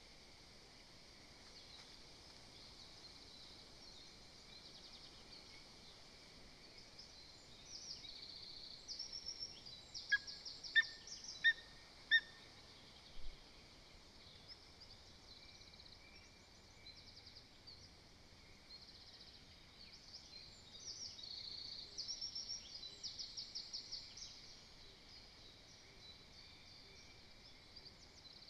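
Songbirds singing in the woodland around the nest, with high rapid trills that come and go. About ten seconds in, four loud, sharp call notes follow each other evenly, a little over half a second apart.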